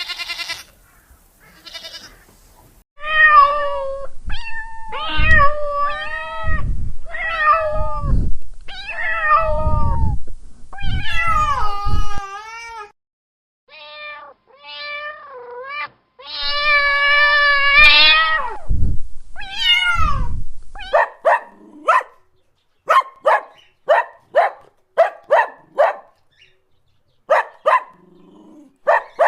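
A cat meowing repeatedly in drawn-out, wavering calls, with one long meow a little past the middle. A run of short, sharp calls, about two a second, follows in the last third.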